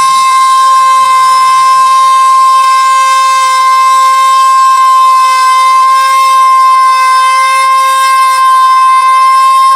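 A loud, steady siren-like tone held at one unchanging pitch, with no beat or voice under it, within the song's track.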